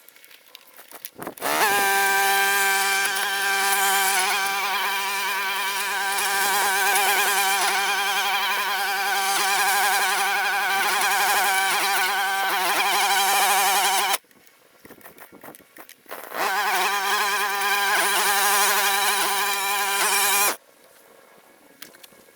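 Grass-cutting machine's motor running at a steady high pitch, cutting out abruptly about fourteen seconds in, then running again for a few seconds before stopping just as suddenly.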